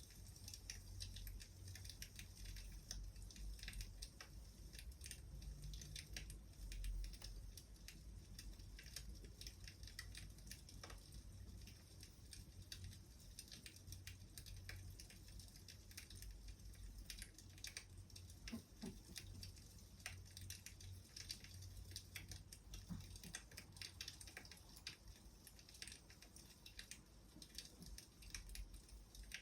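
Faint crackling of a wood fire: irregular small snaps and pops over a low steady rumble.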